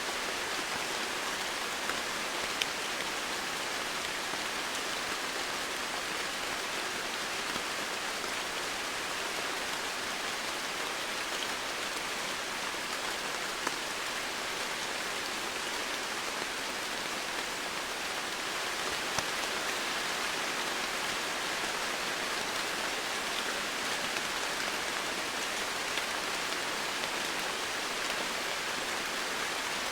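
Steady rainfall, a continuous hiss of rain with occasional single drops ticking a little louder.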